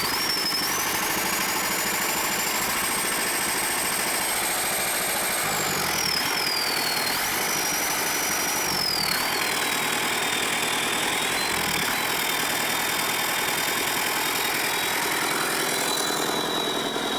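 Lister Petter diesel engine of a generator set running steadily. A thin high whine climbs in pitch over the first few seconds, then falls back and holds steady from about ten seconds in. The engine still doesn't run perfect: one cylinder runs cold from a loose injector pressure line that has just been tightened.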